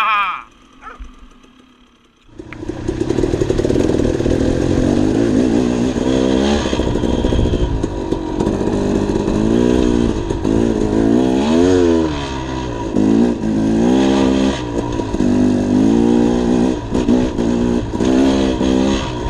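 Dirt bike engine running under way, its pitch rising and falling again and again as the throttle is opened and closed. It comes in loud about two seconds in, after a brief lull.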